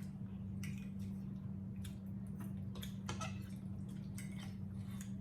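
Scattered wet clicks and smacks of people eating at the table, over a steady low hum.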